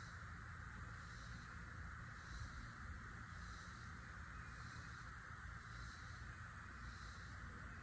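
Steady outdoor animal chorus, a continuous high hum with a faint pulse repeating about once a second, over a low rumble.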